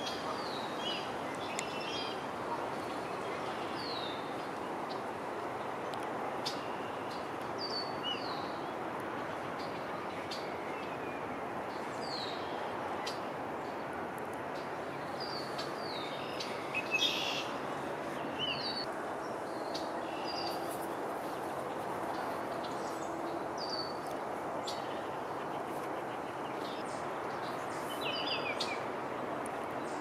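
Several wild birds chirping, in many short, high notes that mostly fall in pitch, scattered all through. A steady background noise runs underneath.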